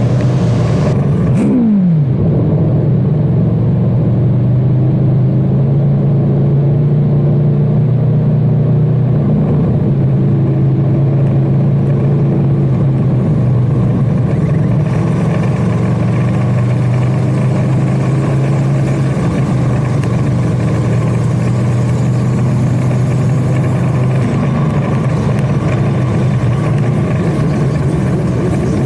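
Superbike engine droning steadily while riding. Its pitch drops once about two seconds in, then holds level for the rest.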